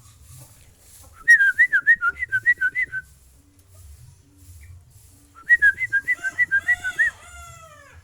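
Two runs of rapid, high whistled notes, about six a second, each lasting under two seconds. The second run ends in a few falling whistles.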